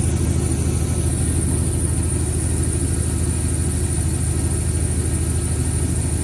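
2007 Jeep Commander's 5.7 L Hemi V8 idling steadily with an even low pulsing.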